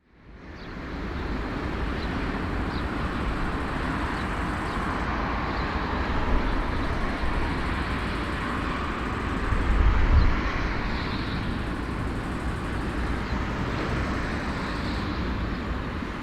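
Steady vehicle engine noise with a deep rumble, fading in at the start and swelling briefly about ten seconds in.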